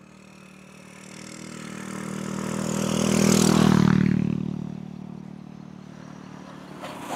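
A motorbike passes by on the road, its engine growing louder to a peak about three and a half seconds in, then fading away.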